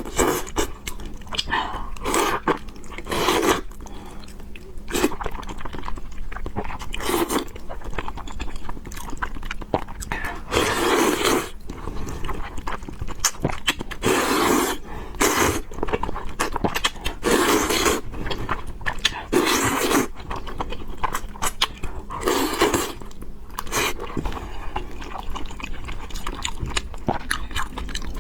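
A person eating spicy fried noodles with pork, close to the microphone: wet chewing and biting, with clicks and louder noisy bursts every couple of seconds.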